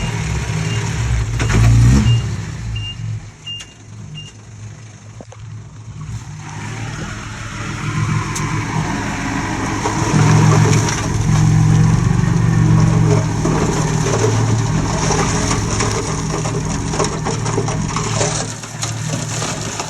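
Komatsu D20P bulldozer's diesel engine working. It eases off to lower revs a few seconds in, then builds up again and runs hard under load with a clattering, grinding noise over it. Short high beeps come about twice a second during the first few seconds.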